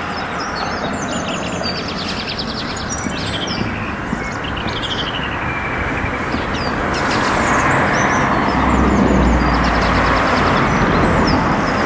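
Several small songbirds singing, with quick repeated-note trills, over a steady hiss and rumble of road traffic that grows heavier in the second half.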